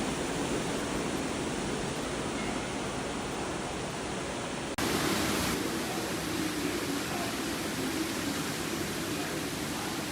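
Floodwater rushing and pouring, a steady heavy noise. About five seconds in it cuts abruptly to another stretch of the same rushing sound.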